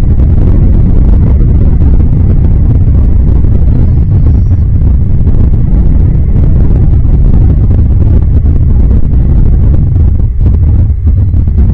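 Wind buffeting the microphone, a loud, steady low rumble, with a faint, brief high chirp about four seconds in.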